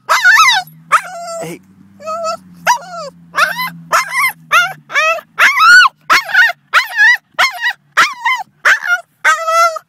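Boston Terrier whining and yelping in a frantic, high-pitched string of short cries, about two a second, each bending up and down in pitch. A low steady hum runs underneath the first half.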